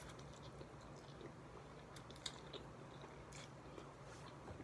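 Faint chewing of a mouthful of chicken pho, with a few soft, scattered mouth clicks.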